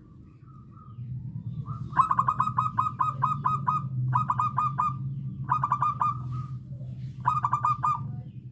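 Zebra dove (perkutut) singing: a fast run of clipped cooing notes starting about two seconds in, then three shorter bursts of four or five notes each, over a steady low hum.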